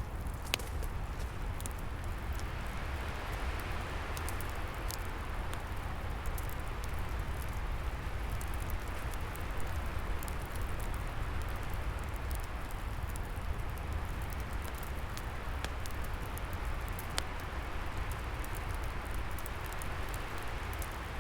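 Wood fire crackling, with sharp irregular pops, over a steady rushing of wind in the trees that swells and eases, and a low rumble underneath.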